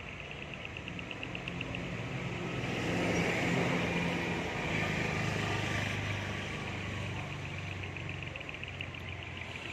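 A road vehicle passing, its engine and tyre noise swelling to a peak about halfway through and then fading. Crickets chirp in a steady pulsing trill underneath, clearest at the start and end.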